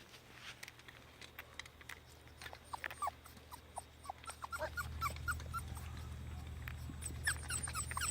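A litter of young puppies whimpering and squeaking in short high cries, getting busier toward the end, over scattered small clicks. A low steady hum comes in about halfway.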